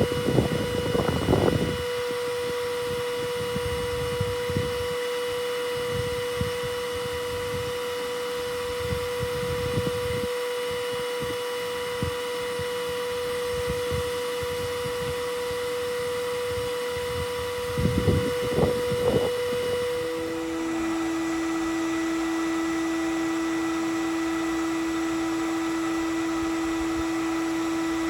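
A steady mechanical hum with one clear pitch, dropping to a lower steady pitch about twenty seconds in, with a few brief knocks and rustles near the start and again shortly before the change.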